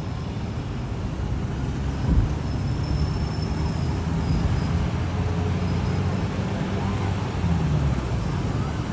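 Road traffic: motor vehicle engines running steadily, with a short knock about two seconds in.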